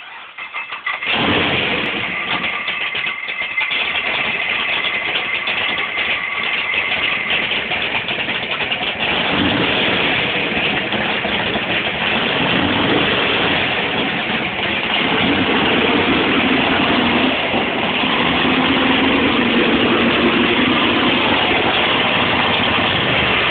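Exposed, chrome-dressed carbureted V8 cranking and catching about a second in, then running loudly and steadily at idle after a fuel-feed problem was sorted out.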